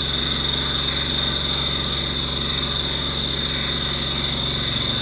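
Haas Mini Mill 2 CNC mill cutting a pocket in 6Al-4V titanium with a single-flute high-feed end mill: steady cutting and spindle noise with a constant high-pitched whine.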